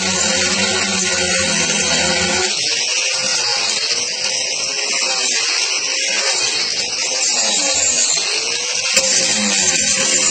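Angle grinder fitted with a coarse toothed Saburtooth carving wheel grinding into wood, a steady high rasping whine whose motor pitch sags and recovers as the wheel bites in. The wheel is worn, missing many of its teeth.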